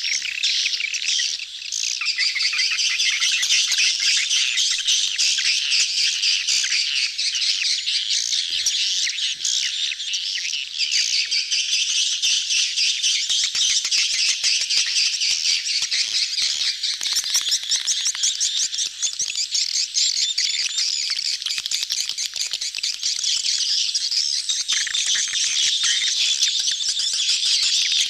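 A crowded colony of swiftlets chattering in a dense, unbroken chorus of rapid high chirps and buzzy trills: the colony mating-chatter recording played as a lure call to draw swiftlets into a nesting house.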